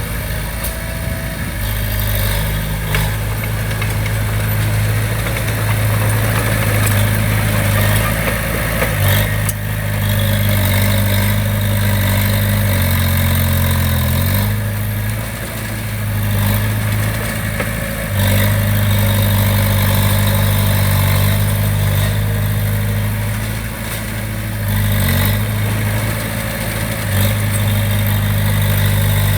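Heavy diesel engine of construction machinery running steadily, its pitch shifting up and down several times, with a few sharp clanks.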